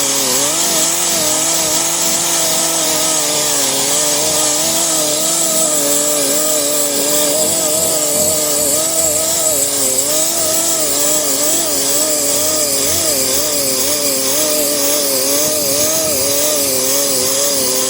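A power sander with a coarse 36-grit 8-inch hook-and-loop disc grinding paint and body filler off a car's steel quarter panel. It runs steadily under load with a loud hiss and a hum that wavers in pitch as the machine is worked back and forth.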